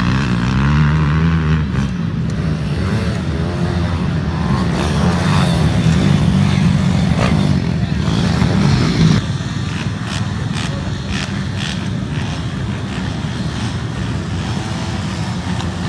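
Mini bike racing engines running and revving, their pitch rising and falling. About nine seconds in, the sound becomes a rougher, steadier drone.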